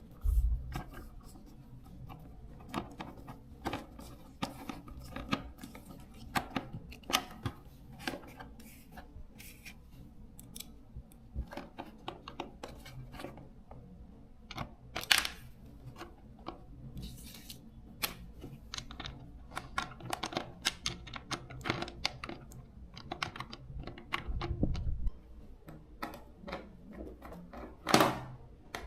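Hand work on small parts with tools: irregular clicks, taps and scrapes, with a few louder knocks, one near the start, one about halfway and one near the end, and a low thud about three-quarters of the way in.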